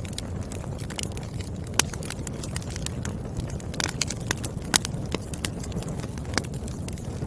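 Burning firewood crackling: frequent sharp pops and snaps over a steady low rumble of the flames, with two louder pops about two and five seconds in.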